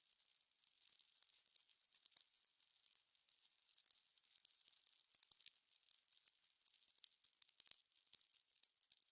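Fire crackling: a soft steady hiss with many quick, irregular pops and crackles.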